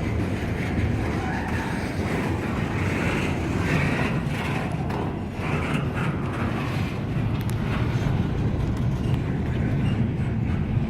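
Freight train cars rolling past: a steady low rumble of wheels on rail with faint clicks, without a break.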